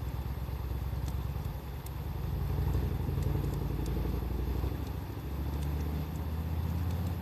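Low rumble of a nearby motor vehicle engine running, its pitch shifting a little a couple of times, over faint, sparse crackles from a wood bonfire.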